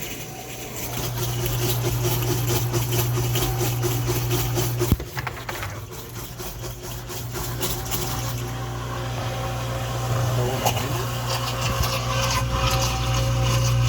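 Dishwasher's 1/8 HP reversing induction pump motor running in drain mode with a steady hum, water splashing and spraying from the wash arm and sump. A sharp knock comes about five seconds in, and the hum weakens for a few seconds before it comes back strong.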